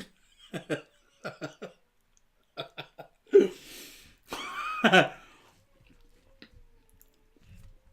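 A man's voice making short wordless grunts and cough-like bursts, with a longer strained vocal cry just before five seconds in.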